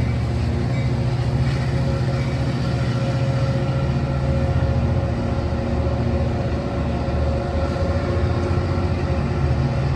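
Amtrak passenger train pulling out of a station, with a steady diesel locomotive drone as the train rolls by.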